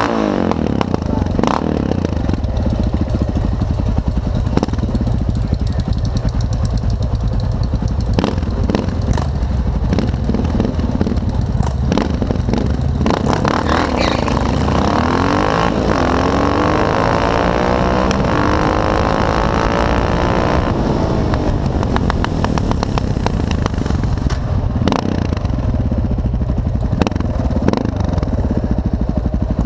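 Motorcycle engines running with a steady low rumble. From about 13 to 21 seconds in, one engine revs hard, its pitch sweeping up and then falling away.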